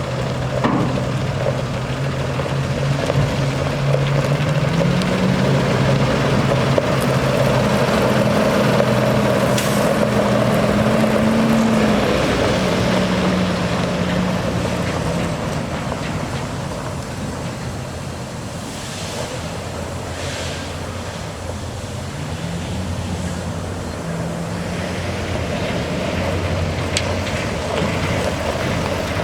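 Cummins 6.7L ISB six-cylinder diesel engine of a 2018 International 4300 dump truck running. Its speed rises about four seconds in, holds for several seconds, eases back down, then rises briefly again in the second half.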